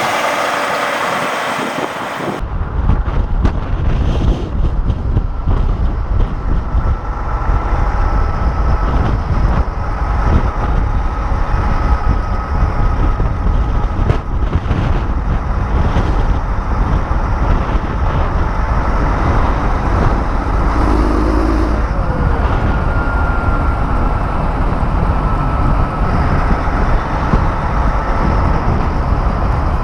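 Big-rig truck engines running outdoors, a loud steady rumble with wind noise on the microphone; the sound changes abruptly about two seconds in.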